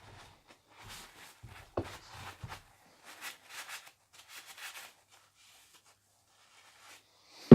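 Cloth rubbing and wiping dry grime off the metal parts of a small drill press, a run of short scrubbing strokes with a sharper knock of metal on the bench about two seconds in. The wiping stops for a couple of seconds near the end.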